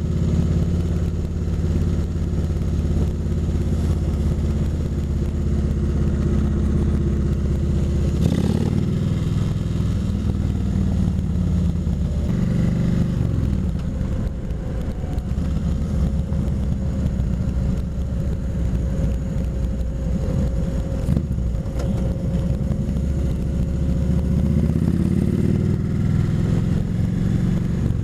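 Kawasaki Vulcan 2000's big V-twin engine running under way, heard from the rider's seat. The engine note drops around 8 seconds in, falls again a few seconds later, and rises near the end as the bike speeds up.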